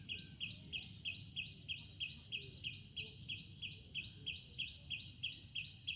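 A small animal calling in a high, even chirp repeated about three times a second, very regular throughout, over a low background rumble.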